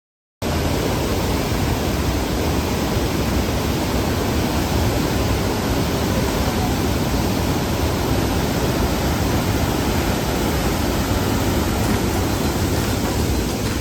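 Steady, loud rushing noise that starts abruptly just after the opening and holds even throughout, with no tone or rhythm in it.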